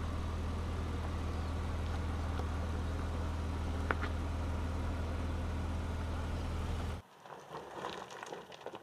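Ford Ranger Raptor driving at a steady pace: a low, even engine and road drone with one brief click partway through. About seven seconds in it cuts off abruptly to a quiet stretch with light clicks and taps.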